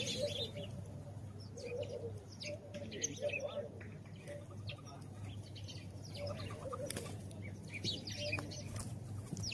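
House sparrows chirping: many short, high chirps overlapping throughout, with a steady low hum underneath and a few brief rustles.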